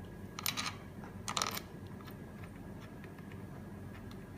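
Two short bursts of rapid metallic clicking about a second apart, then a few faint ticks, as a hand tool tightens the bolts on a Hydramatic gearbox assembly.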